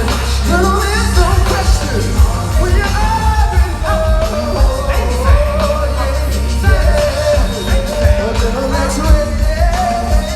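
Live R&B music played over a concert PA: a singer's melody glides over a heavy bass beat, with no clear words.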